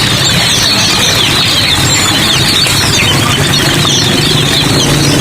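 Many caged songbirds chirping at once, a dense chorus of short falling notes, over a steady hiss and a low hum.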